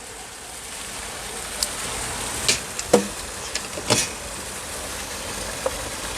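DF64 coffee grinder running and grinding a single dose of espresso beans: a steady whirring hiss with irregular sharp cracks from beans breaking in the burrs.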